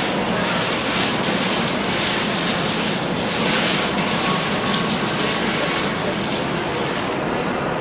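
Falling water from a graphic waterfall display, a steady rushing that swells and eases every second or so.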